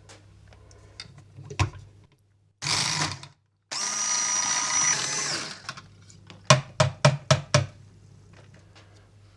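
A small electric motor whirring in two short spells, then about six sharp knocks in quick succession.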